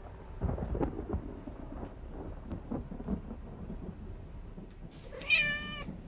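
Thunder rumbling and crackling in a rainstorm, followed about five seconds in by a cat meowing once, briefly and loudly.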